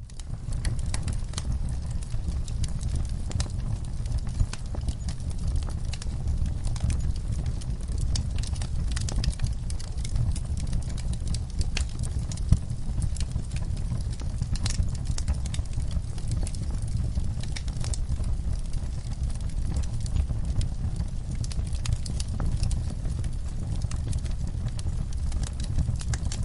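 Wood fire burning in a fireplace: a steady low rumble of flame with frequent sharp crackles and pops, one louder pop about halfway through.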